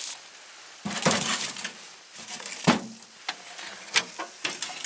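Several separate knocks and clunks, irregularly spaced, with quiet rustling between them.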